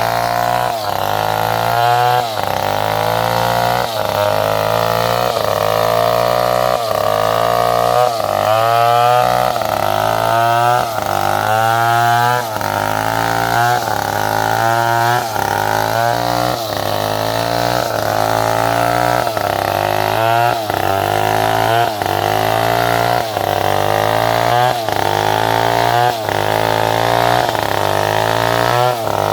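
Power saw cutting salam wood: a steady motor hum with a whine that rises and drops back over and over, roughly once every second and a half.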